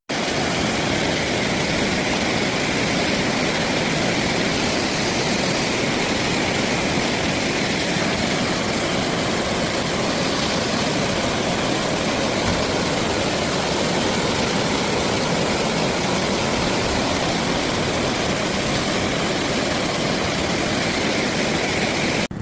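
Fast-flowing floodwater rushing in a steady, even roar that starts and stops abruptly.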